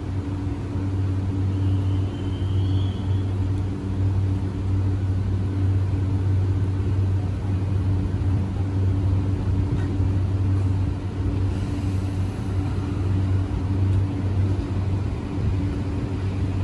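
JR E235-1000 series electric train standing at the platform with a steady low hum, then starting to pull away in the second half.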